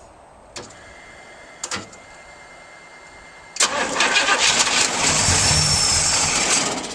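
Starter cranking the 455 V8 of a FiTech-injected Pontiac GTO running E85, on a cold start at about 35°F, for about three seconds; the engine does not stay running. Two faint clicks come first.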